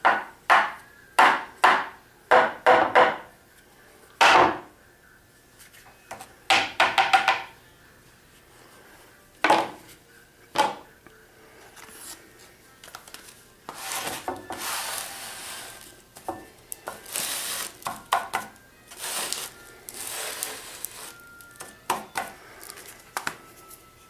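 Sharp knocks and taps of a Bosch orbital sander's dust canister and filter being worked loose and knocked against wood to empty out the sanding dust, some in quick clusters. This is followed by several seconds of scratchy rubbing and scraping as the filter is handled.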